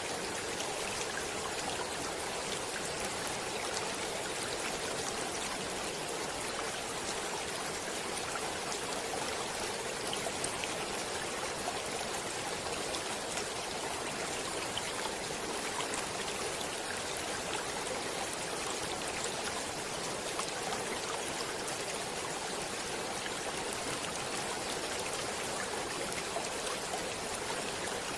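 Stream water flowing steadily: an even, unbroken rushing hiss with small splashes scattered through it.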